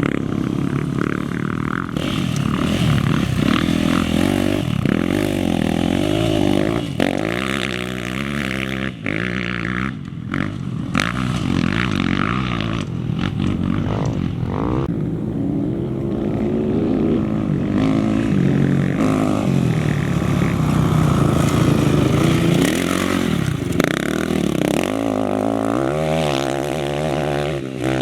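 Off-road racing engines of motorcycles or quads running hard, the pitch rising and falling over and over with throttle and gear changes, with a few sharp knocks mixed in.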